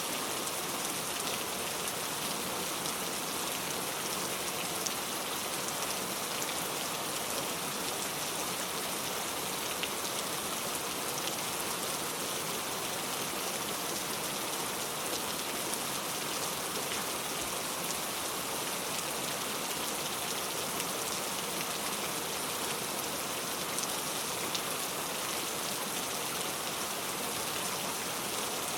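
Steady rain falling, an even hiss of drops with faint scattered ticks of individual drops.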